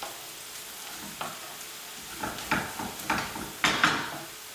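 Chopped onion, garlic and ginger sizzling in oil in a frying pan, with a utensil stirring and scraping the pan in a run of short strokes from about a second in, loudest near the end.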